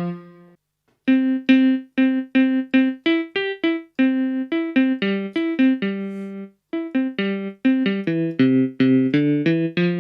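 Casio AiX-engine keyboard playing one of its acoustic piano tones: a chord dies away, then a melody of short, quickly fading notes, with a few lower notes joining near the end.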